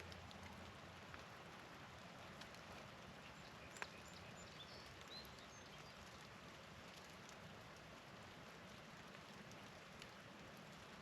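Faint steady patter of falling wet snow in a spring snowstorm, with one sharp tick about four seconds in.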